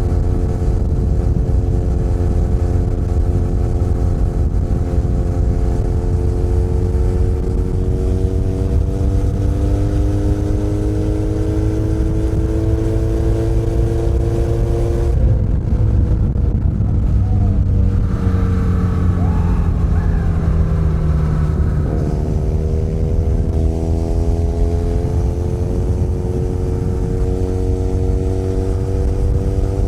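Benelli Leoncino 500 Trail's parallel-twin engine pulling under steady throttle, its note rising slowly. About halfway through it eases off and falls for several seconds, then picks up and climbs again, over a constant rush of wind and road noise.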